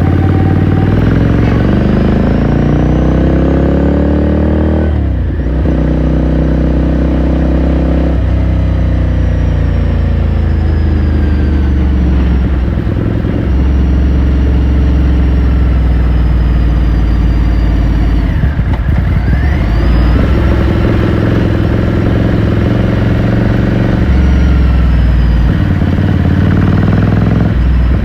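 Ducati Scrambler Sixty2's 399 cc air-cooled L-twin engine and exhaust under way, heard from on board: it revs up over the first few seconds, drops at a gear change about five seconds in, then runs on with its pitch rising and falling as speed changes, climbing again near the end.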